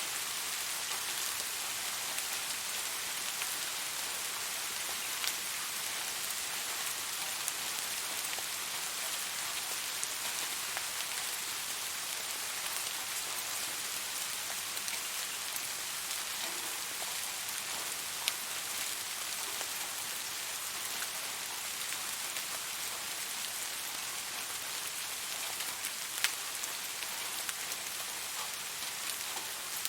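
Steady rain falling, an even hiss with a few sharper drips standing out, the loudest about 26 seconds in.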